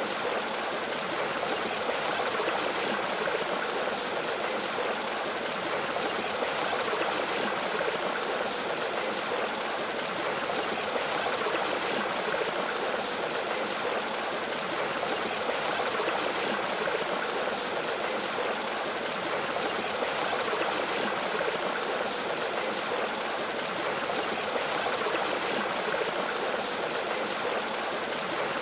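Mountain stream flowing over rocks with a small waterfall: a steady, even rush of water with no breaks.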